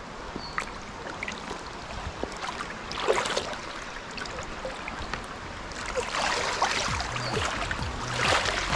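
Mountain stream water flowing, with louder splashing swells about three seconds in and again near the end as water is stirred.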